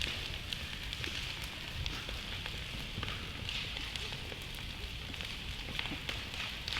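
Wood campfire burning, with a steady hiss and many small crackles and pops.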